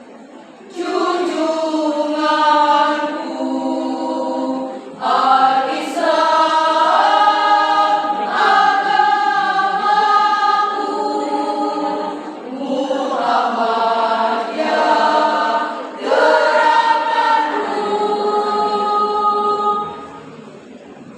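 Choir singing in long held chords, phrase after phrase with brief breaks between, the last phrase dying away near the end.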